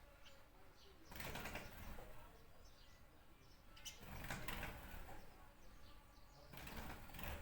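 Small birds chirping faintly, over a rushing noise that swells and fades three times, about every three seconds.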